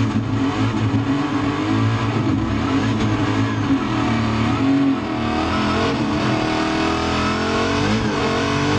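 Vehicle engine running and accelerating. Its pitch climbs through the second half, dips briefly near the end and rises again.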